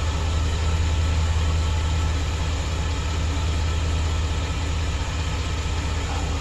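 2008 Chevrolet Express van's gasoline engine idling steadily, with a misfire that the owner takes for a lean misfire.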